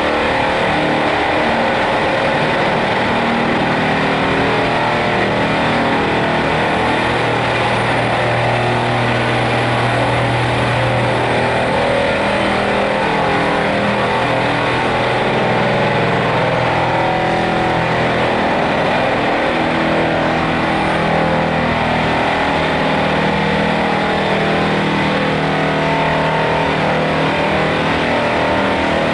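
Heavy machinery engines running steadily, their pitch stepping up and down as they rev under load.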